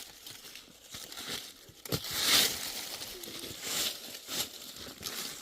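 Rough scraping and crunching of earth or stone being worked by hand, with a sharp knock about two seconds in and a few short hissing scrapes after it.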